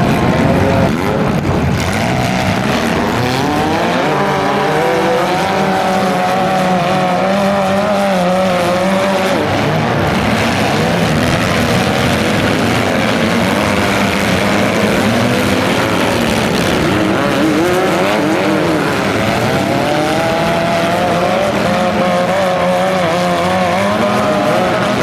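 Several compact-car demolition derby engines running hard, their pitch rising and falling again and again as the cars rev and drive.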